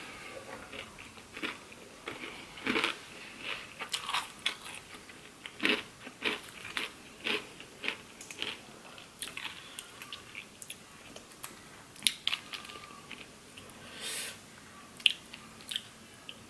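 Close-miked chewing and biting of food: irregular wet mouth clicks and smacks with some crunching, a few each second.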